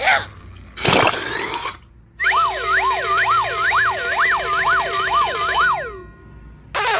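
Siren sound effect: several wailing tones gliding up and down together for about four seconds. A short whoosh comes about a second in, and a loud hissing burst starts near the end.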